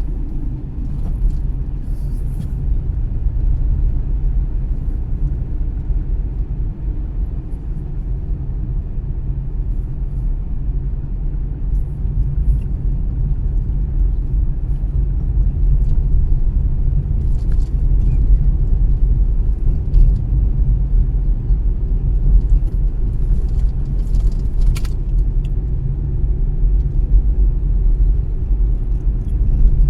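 Car driving along a road: a steady low rumble of engine and tyres, with a few faint brief ticks.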